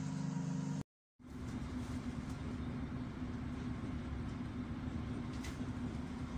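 Inside a moving passenger train: a steady low rumble with a steady hum, cut off for a moment about a second in and then resuming, with a few faint clicks later on.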